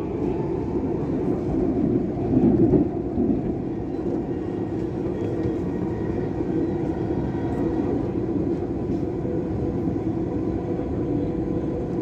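Dubai Metro train running between stations, heard from inside the carriage: a steady rumble with a few faint steady tones above it, swelling a little about two seconds in.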